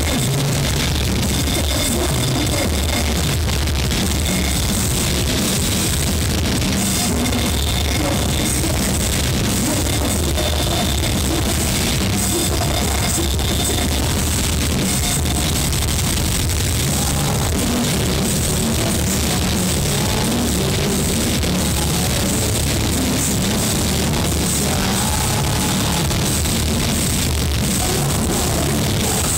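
Heavy metal band playing live, loud and distorted: heavy guitars over a pounding drum kit, recorded from the crowd so the sound is harsh and clipped.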